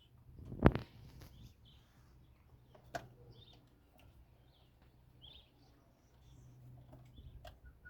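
Small birds chirping on and off, with a sharp knock a little under a second in, the loudest sound, and a lighter click about three seconds in.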